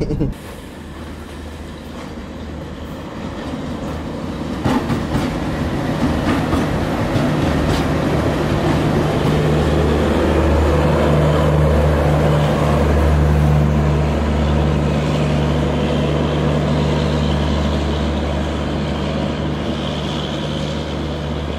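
The Tejas Express passing through the station on the next track without stopping. It grows louder over the first ten seconds or so, then stays loud, with a steady low engine hum under the rumble of the coaches and a few sharp clacks early on.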